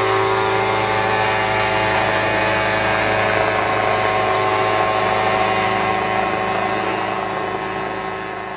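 Helicopter running steadily, a dense engine-and-rotor drone with a constant whine, fading away over the last two seconds or so.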